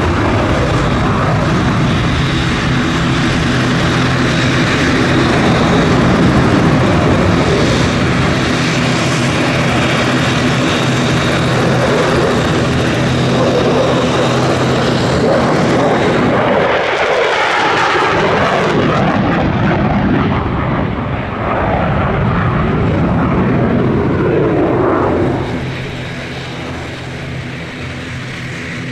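Roar of a Danish F-16 Fighting Falcon's jet engine as the fighter flies its display. Partway through, the pitch sweeps as the jet passes, and the sound falls off near the end.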